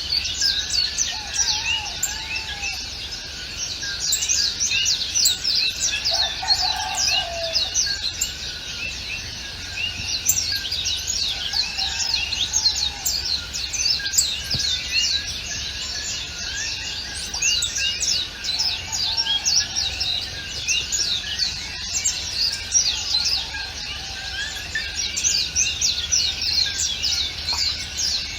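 A dense chorus of many small birds chirping continuously, with quick high, downward-sweeping chirps overlapping throughout. A lower, curved call recurs every few seconds beneath them.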